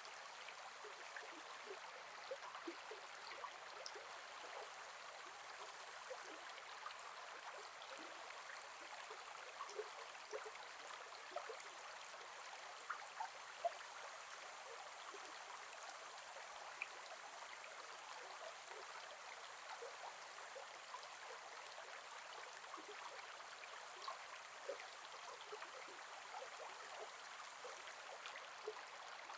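A gentle river flowing over stones, a steady soft rushing with many small gurgles and plops, a few louder ones about halfway through.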